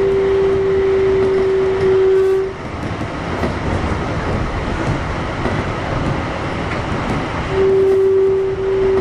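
Kintetsu 1021 series electric train running, heard from inside the car: a steady rumble of wheels on rail under a steady whine from its Hitachi GTO inverter motor drive. The whine cuts out about two and a half seconds in and returns near the end.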